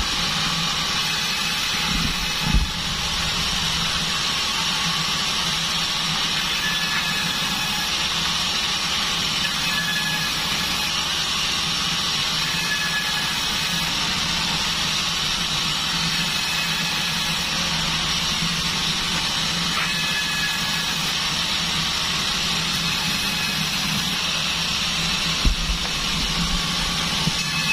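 Bandsaw sawmill running steadily, a machine hum under a hiss. There is a brief low thump about two seconds in, and a few more near the end.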